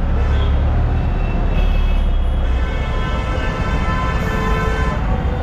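Motorcycle on the move in road traffic: a steady low rush of wind on the microphone over the running engine, with a faint steady pitched tone from a vehicle partway through.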